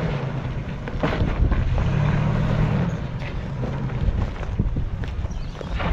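Off-road truck engine running at low revs while crawling over rocks, swelling briefly about two seconds in, with scattered knocks and wind buffeting the microphone.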